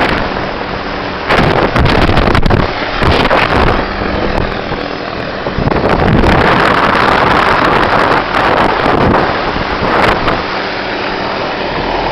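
Hughes 500 helicopter running, a steady low engine and rotor drone half buried under heavy wind buffeting on the microphone that surges and eases every few seconds.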